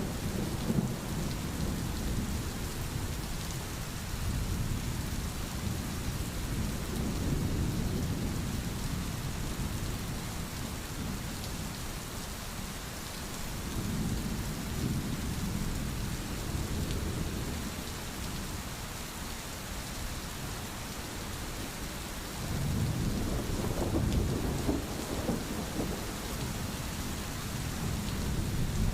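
Steady rain hiss with low rolls of thunder that swell and fade several times, the longest near the end.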